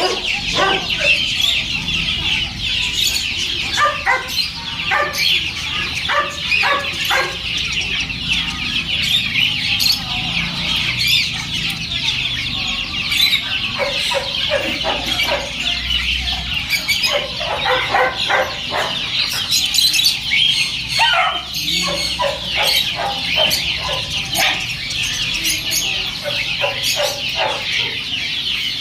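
A dense chorus of many caged birds chirping and chattering at once, with repeated short clucking calls over it.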